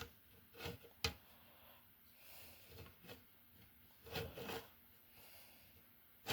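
Faint handling noises: a few light clicks and knocks with some rubbing as RC truck body parts and chassis are moved about and positioned by hand.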